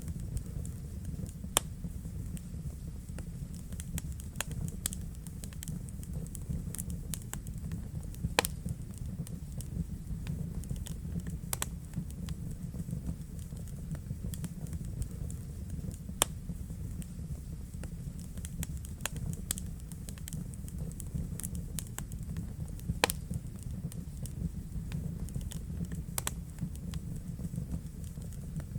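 Wood fire burning in a fireplace, crackling with irregular sharp pops over a steady low rumble; a few pops stand out louder, about four in the whole stretch.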